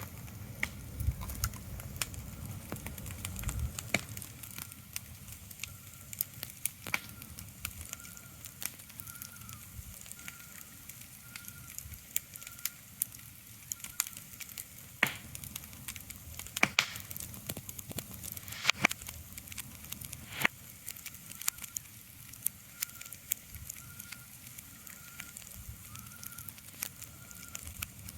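Ambient soundscape of irregular sharp crackles and pops over a soft steady hiss, with a faint high tone pulsing over and over, and a low rumble in the first few seconds.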